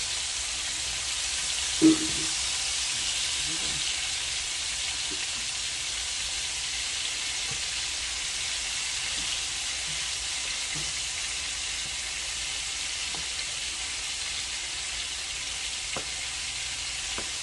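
Ground meat patties frying in a pan with a steady sizzle. One brief loud knock about two seconds in.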